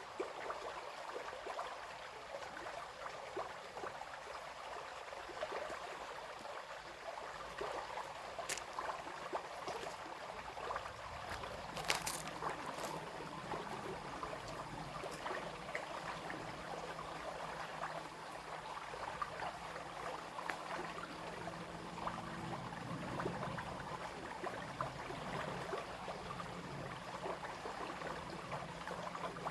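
Small brook babbling and trickling steadily over stones, with a few brief sharper splashes about a third of the way in.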